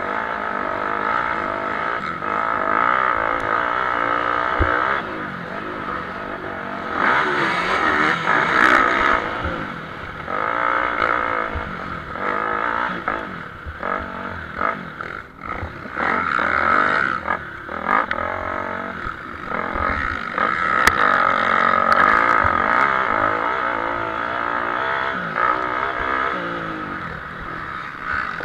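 Motocross motorcycles racing, engines revving up and easing off over and over, the sound swelling and fading as bikes come and go.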